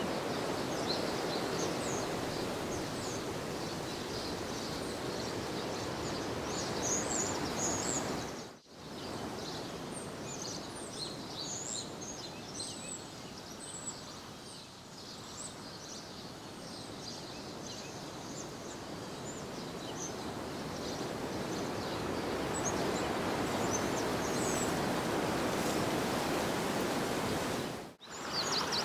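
Outdoor ambience: a steady rushing noise with many small birds chirping and singing over it. The sound drops out briefly twice, about a third of the way in and near the end.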